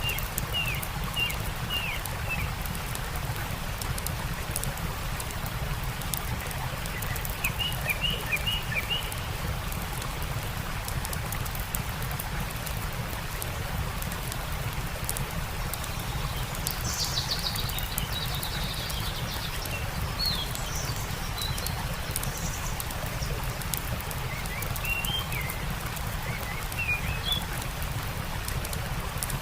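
Stream water running steadily under a crackling campfire, with small birds chirping in short quick series several times.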